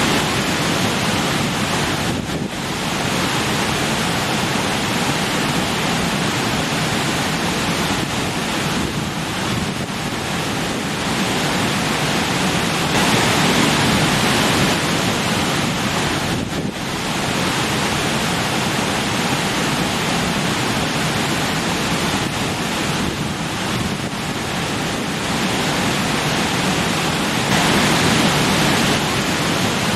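Rushing stream splashing over rocks: a steady, dense roar of moving water that swells and eases a little every few seconds.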